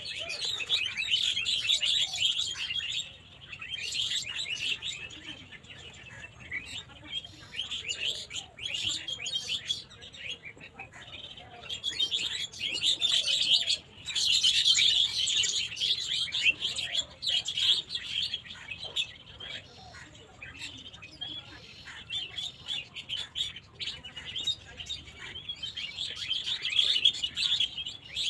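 Many small birds chirping and twittering without a break, in louder and softer spells.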